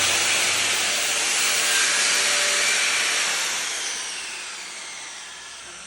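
Long, steady spray hiss from an aerosol can, started suddenly just before and fading away over the last two seconds or so.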